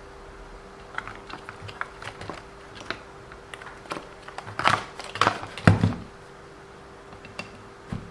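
Irregular clicks and taps of small hand tools and plastic and metal RC car parts being handled during disassembly, with a cluster of louder knocks about five to six seconds in, the last one a dull thud, over a faint steady hum.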